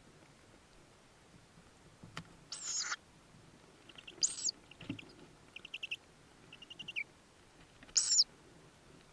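Tawny owl chicks in the nest box giving short, hoarse, wheezy begging calls, three of them about two and a half, four and eight seconds in. Between about four and seven seconds a quick series of short high notes, with a soft knock near five seconds.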